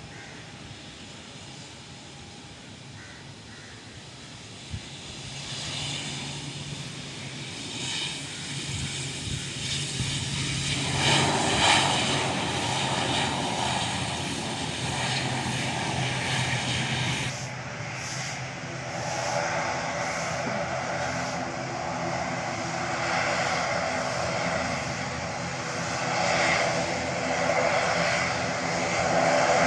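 ATR 72-600 turboprop airliner on its landing approach, its two propeller engines droning with a steady tone. The sound is faint at first, grows from about five seconds in, turns loud about eleven seconds in and stays loud.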